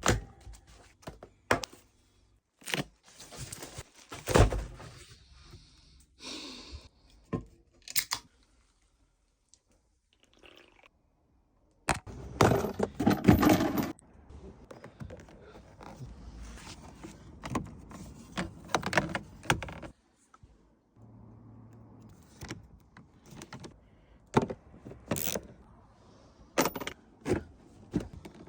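Hands-on work on a car: a string of short knocks, clunks and scrapes of tools and parts being handled, with a louder, busier stretch of rattling and scraping about twelve seconds in. The sound stops dead twice, briefly, as between cut clips.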